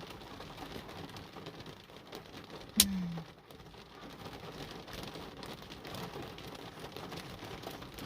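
Steady rain falling. About three seconds in there is one sharp knock followed by a brief low falling tone.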